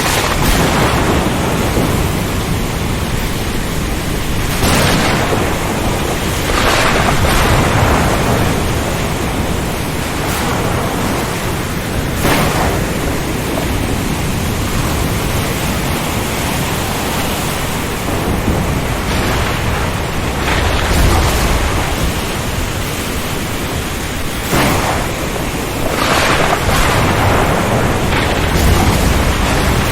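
Storm over the ocean: a steady, loud rush of strong wind and rain, with surges of louder noise every few seconds and a couple of deeper rumbles.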